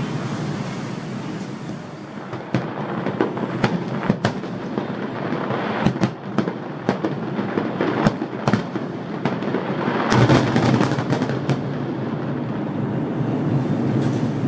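Aerial fireworks display: a continuous rumble of distant bursts with many sharp cracks, a dense salvo of crackles about ten seconds in.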